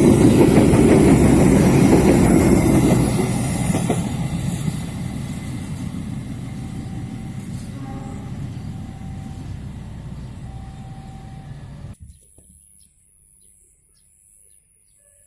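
A train running on the track, loud rumble at first and fading steadily as it moves away; about twelve seconds in the sound cuts off abruptly to a much quieter background.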